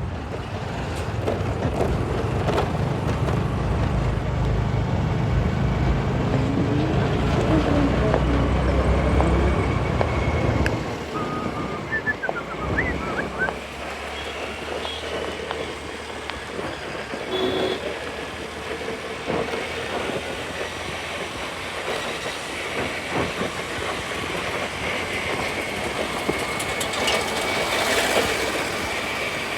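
Riding noise from a moving scooter: a steady rumble of wind and road noise that drops in level about ten seconds in, with a few brief squeals a couple of seconds later.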